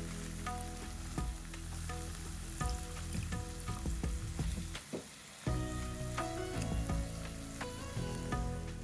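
Onion and spice masala frying and sizzling in oil in a nonstick wok, with a spatula stirring and scraping against the pan in many short clicks. There is a brief drop about five seconds in.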